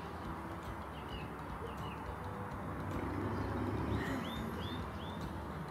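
Small birds chirping: short, falling chirps, a few in a row, repeating every half second or so, over a steady background hiss.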